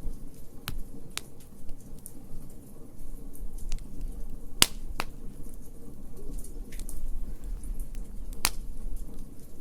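Wood fire in a fire pit crackling, with scattered sharp pops over a low rumble; the two loudest pops come about halfway through and near the end.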